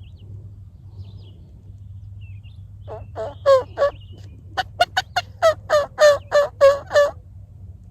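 Turkey yelping: a short run of about four loud notes about three seconds in, then after a pause a faster run of about a dozen, each note breaking downward in pitch.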